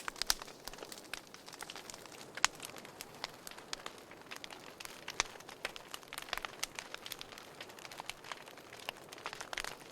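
Wood fire crackling in a fireplace: irregular sharp pops and snaps, several a second, over a soft steady hiss. Two louder pops come just after the start and about two and a half seconds in.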